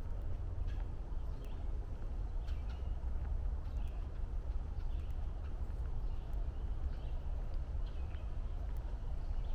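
Songbirds giving short scattered chirps and calls over a steady low rumble, with faint footsteps on the trail.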